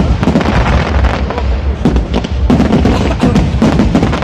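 Fireworks going off in a rapid, continuous barrage of sharp bangs and crackles, with music playing underneath.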